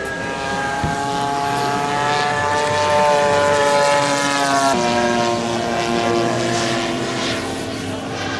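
Propeller engine of a giant-scale radio-control warbird model running in flight, a steady drone whose pitch drifts slowly and then drops sharply about halfway through.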